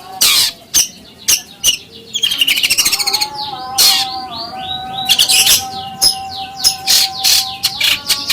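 Songbird song: fast runs of sweeping whistled notes and sharp chips, with a steady held tone underneath from about three to seven seconds in.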